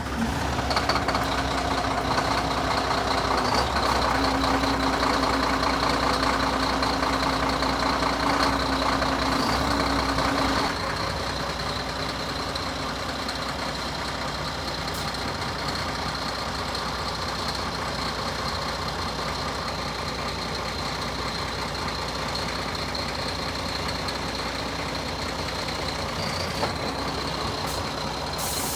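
Scania G360 truck's diesel engine idling just after start-up: it runs at a raised, louder idle for about ten seconds, then drops to a lower, steady idle. A thin steady high tone runs above the engine.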